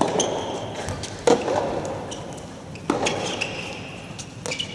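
Soft tennis rally: a soft rubber ball struck back and forth by rackets, three or four sharp hits about a second and a half apart, each ringing on in a large hall.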